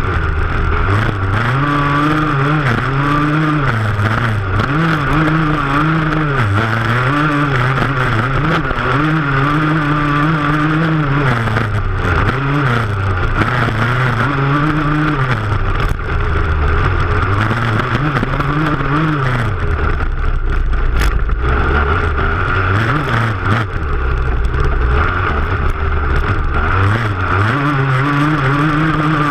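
Motocross bike engine under hard throttle, its pitch climbing and dropping again and again as it accelerates and eases off, over a constant rush of wind and flying dirt.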